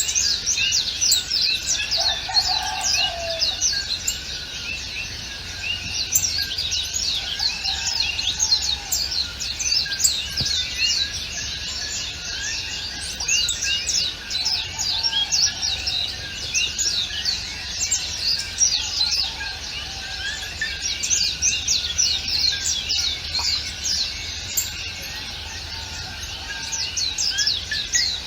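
A chorus of many small songbirds chirping and singing at once: an unbroken tangle of quick, high notes.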